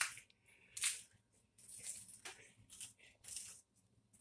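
Faint chewing of pizza: several short bursts of mouth and chewing noise, a second or so apart.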